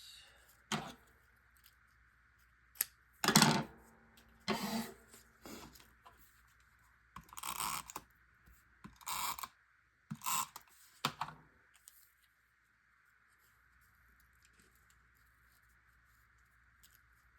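Cardstock and paper-crafting tools being handled while trimming paper: a series of clicks, taps and short rustles, the loudest about three seconds in, stopping about twelve seconds in.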